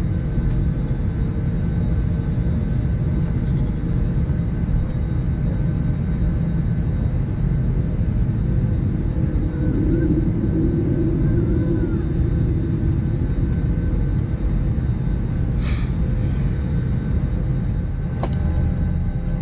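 Airbus A321 airliner's jet engines running: a steady low rumble with faint steady whining tones over it, and a short click about sixteen seconds in.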